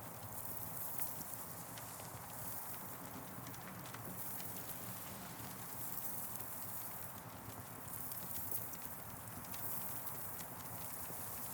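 Campfire crackling, with frequent small pops and snaps over a steady hiss that swells and fades every few seconds.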